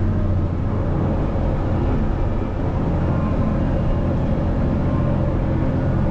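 Caterpillar 637C scraper's diesel engines running steadily, a loud, even low drone with no change in pitch.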